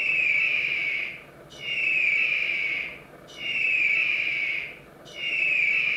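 An eagle calling: four long, high screeching calls in an even series, each falling slightly in pitch.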